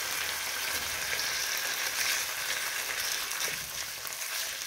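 Chicken breasts and sliced onions sizzling in oil in a frying pan with a steady frying hiss, as the pieces are turned over with tongs.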